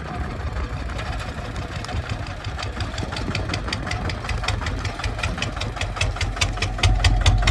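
Kubota ZT 155 single-cylinder diesel engine running with an even knocking beat. The beat grows plainer partway through, and the engine gets louder near the end.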